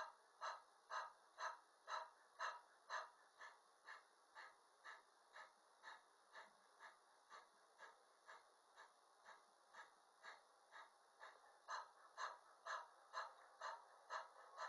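A woman panting in the 'dog breath' exercise: short, even, rapid breaths about two a second, driven by the diaphragm and inner abdominal muscles. The breaths grow softer in the middle and stronger again near the end.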